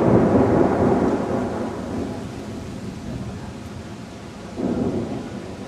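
Thunder rolling: a loud rumble that peaks in the first second and fades over the next few seconds, then a second, shorter swell of rumble near the end.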